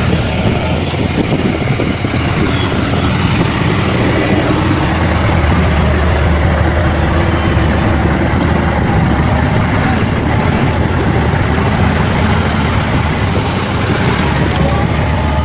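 Bulldozer's diesel engine running steadily: a deep, continuous drone.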